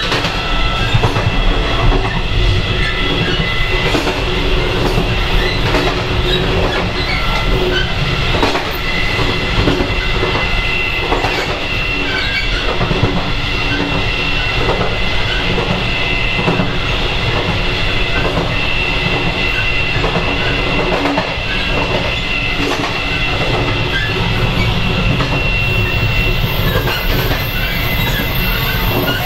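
Taiwan Railway EMU300 electric multiple unit running at speed, heard from the vestibule between cars: a continuous rumble of wheels on rail with a steady high whine, part of which fades out near the end.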